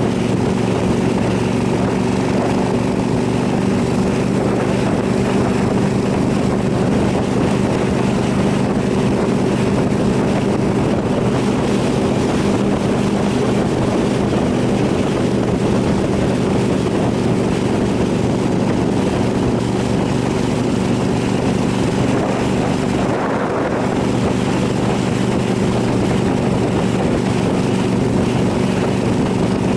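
KTM 990 SMR's V-twin engine running at a steady, near-constant pitch while cruising, with rushing wind noise over it.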